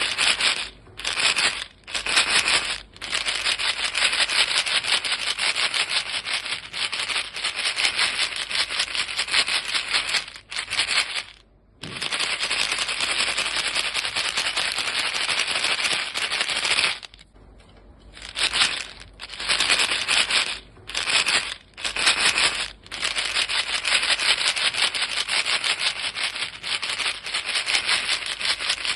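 A box of chewing-gum pellets being shaken, the pellets rattling against the box in a dense, rapid clatter. It comes in runs of one to several seconds with short pauses, the longest about halfway through.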